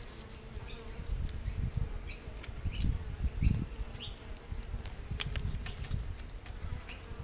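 Honey bees buzzing around an opened hive, a faint steady hum, with scattered sharp clicks and low knocks from frames being handled; the loudest is a low thump about three and a half seconds in.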